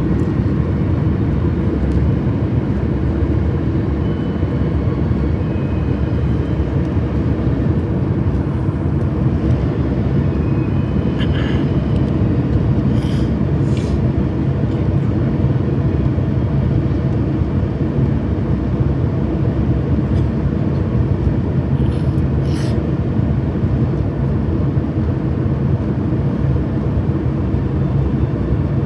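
Steady low outdoor rumble that holds an even level throughout. A few faint short high sounds come through around the middle and again about two-thirds of the way in.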